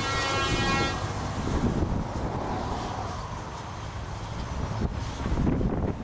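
A truck horn sounds for about a second, over the low rumble of heavy trucks driving past in a convoy.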